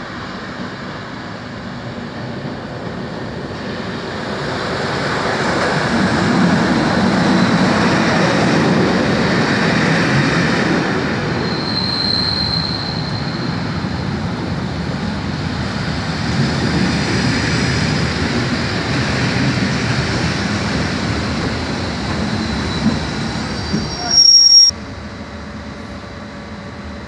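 Locomotive-hauled test train with GBRf class 73 electro-diesels running slowly into the platform and passing close, its wheels and coaches rumbling and clattering over the track, with a brief wheel squeal in the middle. Near the end a short, very loud shrill squeal as the train draws to a stand, after which the sound settles to a steadier, quieter level.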